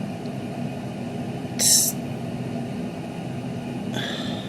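Steady low hum of a machine or appliance, with one short hissing breath or sniff about a second and a half in.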